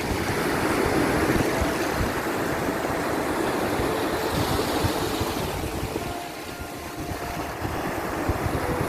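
Sea surf: waves washing in as a steady rushing noise that eases about six seconds in and then builds again.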